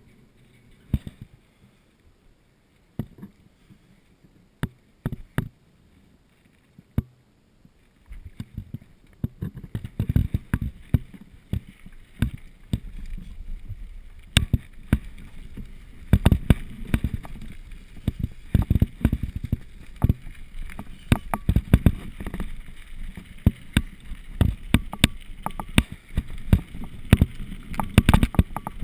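Mountain bike rolling over a rough trail. There are a few scattered knocks at first, then from about eight seconds in a steady rumble with dense rattling and impacts.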